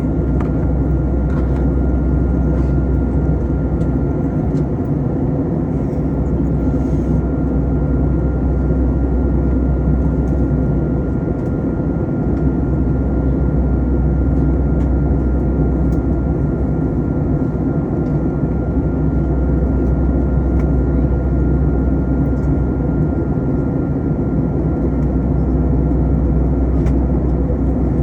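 Steady, loud cabin noise of an Airbus A321 on descent: engine and airflow rumble, with a faint, steady high whine on top.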